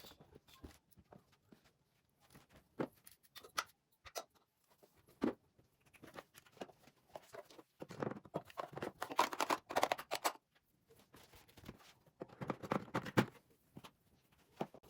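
Household objects being handled and set down: scattered light taps and clicks, with longer bursts of rustling about eight to ten seconds in and again around thirteen seconds.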